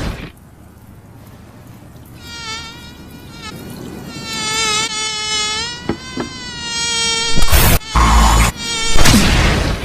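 A fly buzzing: a high, wavering hum that swells and dips in pitch for about five seconds, broken by two sharp clicks. In the last two and a half seconds come several loud crashing impacts.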